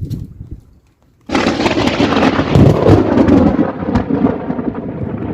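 Thunderclap breaking suddenly about a second in, then rolling on loudly for several seconds as it slowly dies away, during a rainstorm. A brief short noise comes just before it, at the start.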